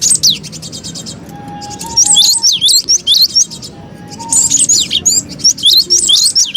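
Cinereous tit (gelatik batu) lure recording: loud flurries of sharp, quickly sweeping chirps, with a fast buzzy rattle just after the start and short pauses between flurries.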